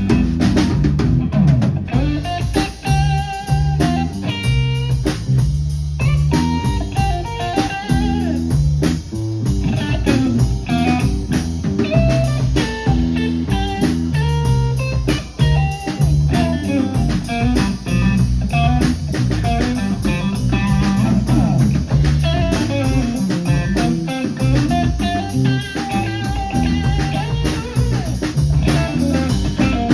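Live band playing a blues-style instrumental break: a guitar carries the melody over drum kit and bass guitar.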